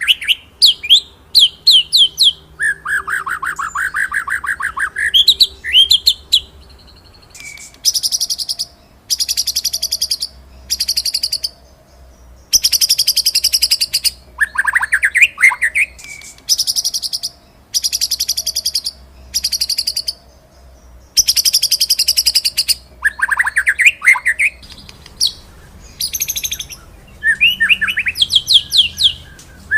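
White-rumped shama (murai batu) singing continuously: fast rolling trills in bursts of about a second, traded with sharp whistled notes that sweep up and down.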